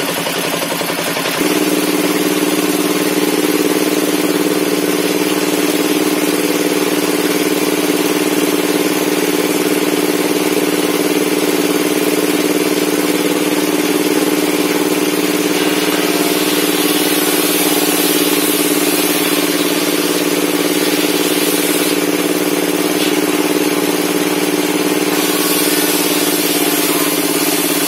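Table-mounted circular saw for log sawing running steadily, a constant hum that steps up slightly about a second and a half in. A brighter hiss joins it twice in the second half.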